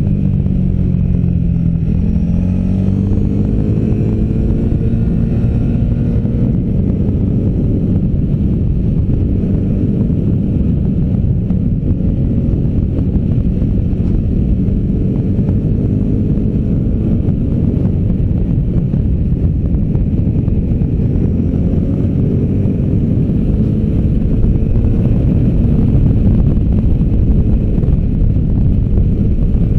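V-twin adventure motorcycle engine pulling at speed, its revs dipping and then climbing in the first few seconds and rising and falling after, over a heavy rumble of wind and road noise.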